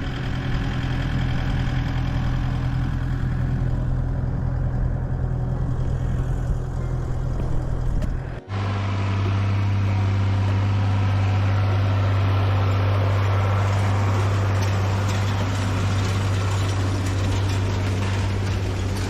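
Farm tractor engine running at a steady speed. About eight seconds in it cuts off abruptly and a second steady engine sound with a lower note takes over.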